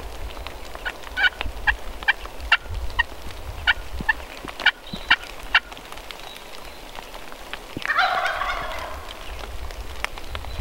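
Wild turkeys calling: a run of short, sharp yelping notes from about a second in to about five and a half seconds, then a tom gobbling once, a rattling call of about a second, around eight seconds in.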